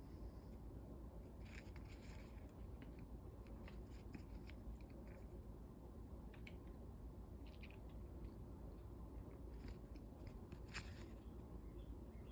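Faint handling noises: a scattering of short crinkles, ticks and light scrapes from a paper pamphlet being moved about, over a low steady hum. The sharpest crinkles come about a second and a half in and again near the end.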